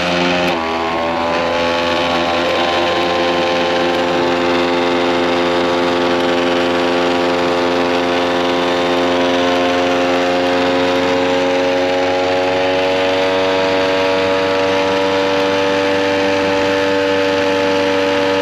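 Vacuum sealer's pump motor running with a steady hum, pulling the air out of a bag of fish before it seals.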